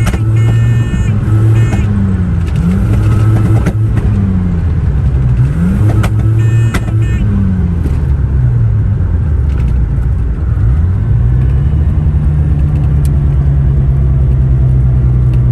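Mazda RX-7 FC's 13B twin-rotor engine running loud, its pitch rising and falling several times as the revs climb and drop, then holding steady near the end, with a few sharp clicks in the first half. The engine still misfires at high rpm despite a new fuel pump.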